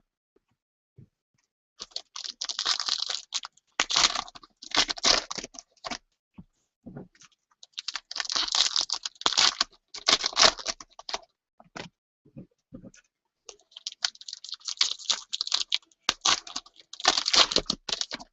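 Trading card packs and wrapping being handled and torn open: crinkling, tearing and clicking in bursts of a second or two, with short pauses between them.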